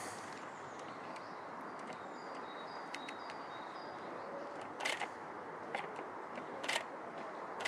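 Steady outdoor ambience with faint high bird chirps in the first half, and a few sharp clicks in the second half.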